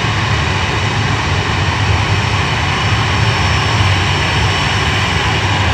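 Jet airliner noise: a steady, even rush over a low rumble. It cuts off suddenly at the end.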